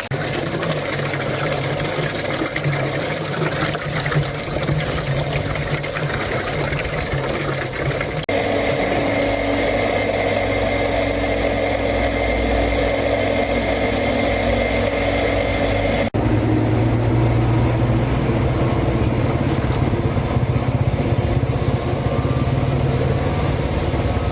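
A machine running steadily with no speech. The sound changes abruptly twice, about eight and about sixteen seconds in, and the last stretch is stronger in the low hum.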